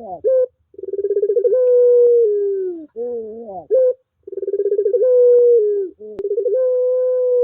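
Puter pelung dove cooing repeatedly: three long calls, each opening with a quick rattle that runs into a held note dropping in pitch at the end, with short rising notes between them.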